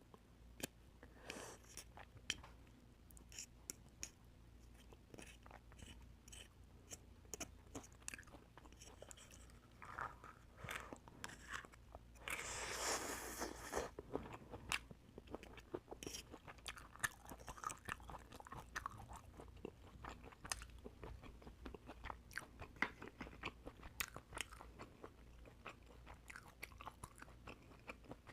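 Close-up sounds of a person eating oysters: wet chewing and many small sharp clicks and crunches, with a louder, longer noisy sound about twelve seconds in.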